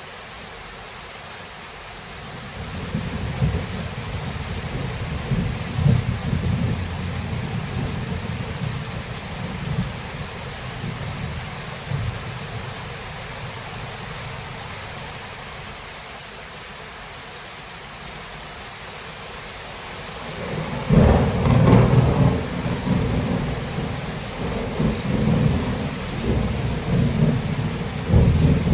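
Steady rain falling with rolling thunder: a low rumble builds about three seconds in and fades out by the middle, then a louder thunderclap comes about 21 seconds in and rumbles on.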